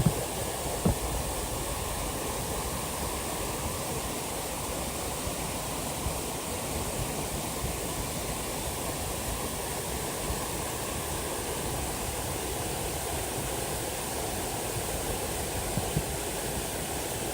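Waterfall rushing with a steady, even roar of water. There are a couple of brief knocks about a second in and another near the end.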